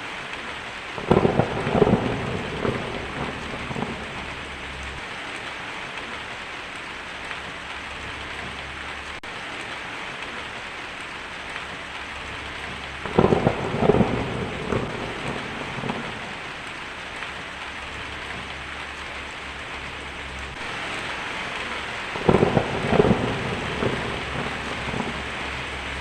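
Steady heavy rain with three loud rolls of thunder, about a second in, around the middle, and a few seconds before the end.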